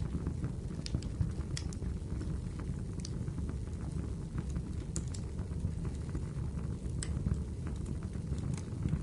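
Wood fire crackling in a fireplace: a steady low rumble of burning with scattered sharp pops and snaps at irregular intervals.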